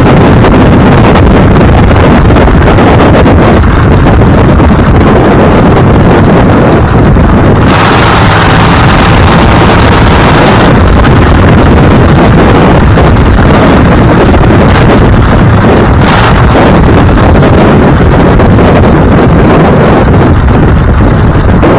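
Heavy wind buffeting on the microphone over the road and engine noise of a moving vehicle, loud throughout. About eight seconds in, a brighter, higher rushing sound with a faintly wavering pitch joins in for about three seconds.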